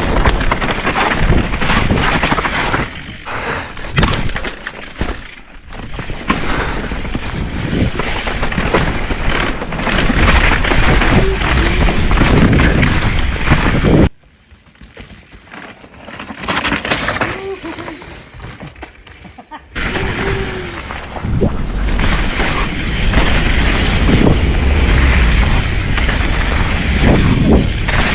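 Mountain-bike descent heard from an on-bike action camera: wind buffeting the mic, tyres rumbling over dirt and rock, and the full-suspension Specialized Stumpjumper clattering over impacts. About halfway through the sound drops abruptly for about five seconds, then comes back just as loud.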